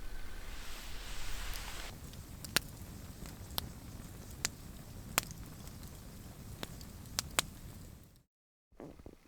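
Campfire burning with a low steady rush and about eight sharp pops scattered through it, broken by a short dead silence near the end.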